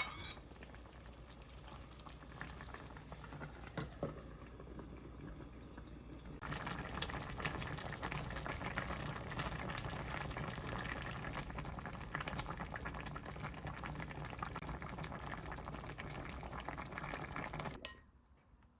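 Food boiling in a pot, a steady bubbling and crackling that grows louder about six seconds in and stops abruptly near the end.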